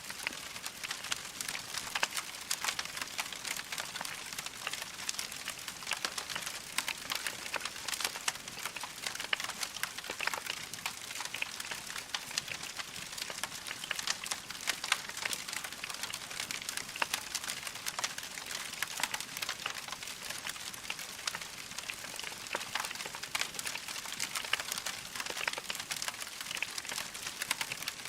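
Wood fire crackling: a steady stream of small pops and snaps from burning logs over a soft hiss, with no single loud pop standing out.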